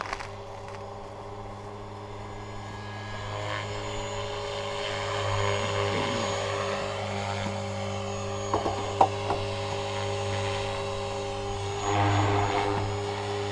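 Align T-Rex 500 electric RC helicopter flying, its motor and rotor making a steady whine that grows louder about 4 s in and swells again near the end. A sharp click about 9 s in.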